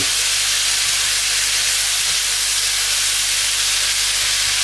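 Diced chicken breast and vegetables frying in oil and butter in a pan, with a steady, even sizzle.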